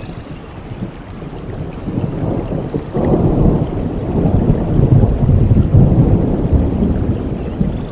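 Rain falling steadily, with a deep rumble of thunder that breaks in suddenly about three seconds in and rolls on loudly, easing a little near the end.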